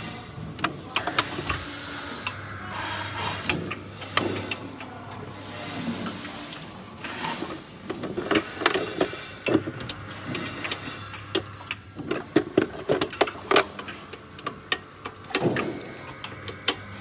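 Small electric motor humming on and off, with many sharp clicks and knocks of screws and tools as its mounting screws are loosened, repositioned and tightened to align the motor and cure an abnormal noise.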